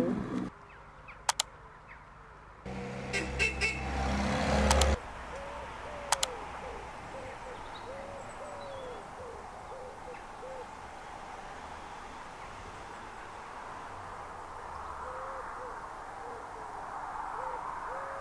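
A bird giving short, low hooting calls again and again in runs over a steady outdoor hiss. In the first five seconds there is a brief low hum with a few clicks.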